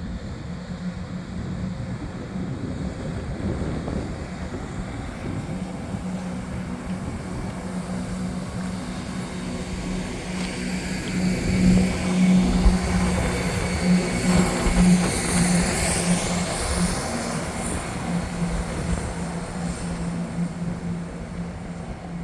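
CrossCountry Class 170 Turbostar diesel multiple unit pulling away from the station, its diesel engines giving a steady low drone. It grows louder and hissier about halfway through as the train goes past, then eases off.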